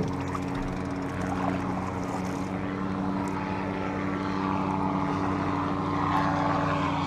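Engine running with a steady drone of several constant pitches over a noisy wash, growing a little louder near the end.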